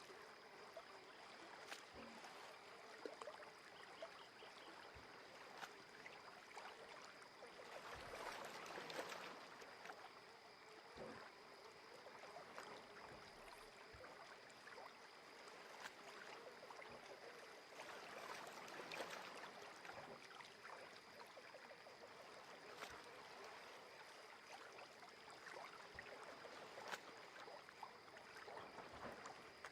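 Faint lake water lapping at the shore: small wavelets with little splashes and trickles, swelling gently twice.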